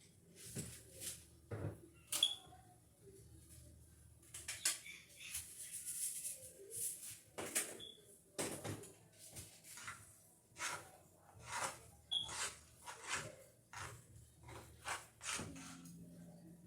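A cooking utensil scraping and knocking in a pan as fried rice is stirred: irregular short strokes, about one or two a second.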